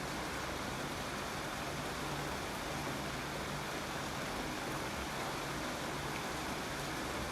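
Steady rain falling, a continuous even hiss with no separate drops or thunder standing out.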